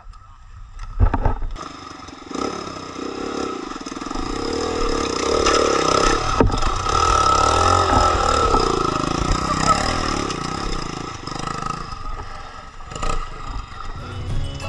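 Dirt bike engine running under load, its revs swelling and then easing off, with a couple of sharp knocks partway through.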